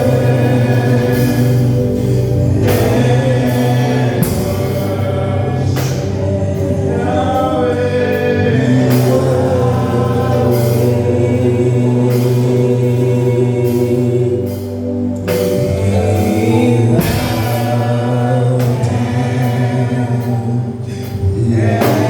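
Slow gospel worship song: voices singing held, drawn-out lines over sustained low accompaniment notes.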